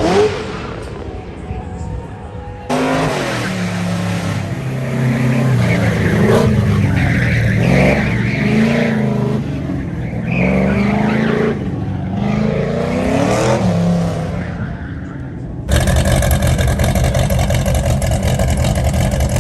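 Car engine revving, its pitch rising and falling again and again as the car accelerates and slows. It breaks off suddenly near the end into a different, steady, louder engine noise.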